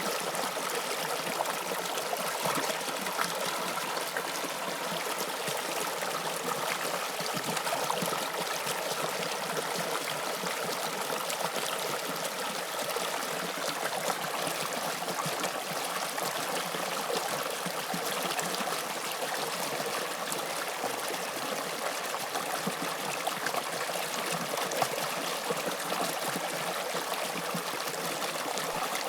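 Toronto subway Line 2 train running, a steady rushing noise of wheels on rail with faint steady tones.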